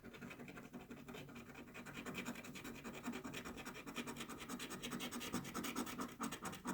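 A coin scraping the latex coating off a scratch-off lottery ticket in quick, rapid strokes, growing louder over the seconds and stopping just before the end.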